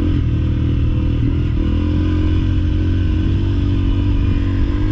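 Honda CRF300L's single-cylinder four-stroke engine running steadily while the bike rides along a dirt track. Its pitch dips and rises slightly a little over a second in.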